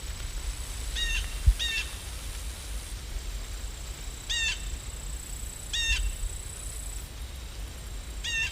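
A bird calling outside, five short harsh calls, two close together about a second in and three more spaced a couple of seconds apart, over a steady low rumble. A single low thump about a second and a half in.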